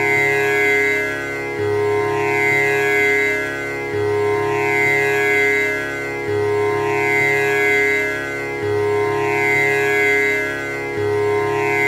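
Tanpura drone: its strings plucked in turn in an unbroken cycle that repeats about every two and a half seconds, the buzzing overtones shimmering and sweeping over the sustained notes.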